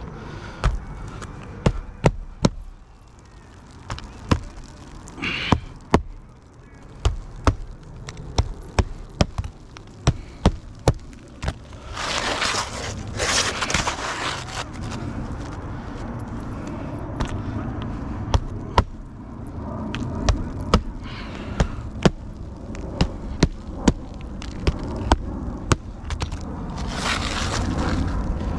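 Roofing work on shingles: irregular sharp knocks of hand tools, in quick clusters, with stretches of scraping about halfway through and again near the end.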